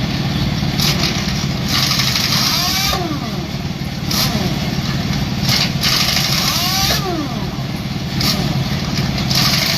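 A vehicle engine idling with a steady low hum, with short bursts of hissing every second or two and a brief rising-then-falling whine about every four seconds.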